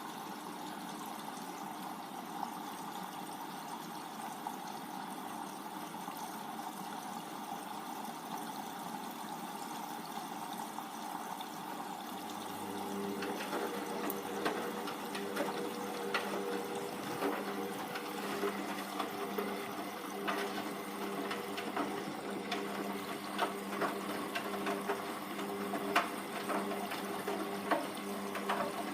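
Hoover Vision Tech washing machine on a 40°C mixed wash: water hissing into the drum, then about twelve seconds in the drum motor starts with a steady hum and the wet laundry tumbles with light knocks and clicks.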